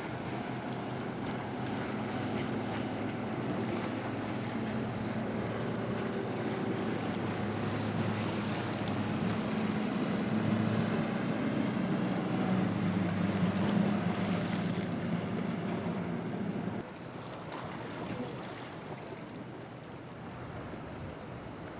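Boat engine drone as a boat runs through the inlet, over wind and breaking surf. The engine grows louder to a peak about two-thirds of the way in, then drops away suddenly.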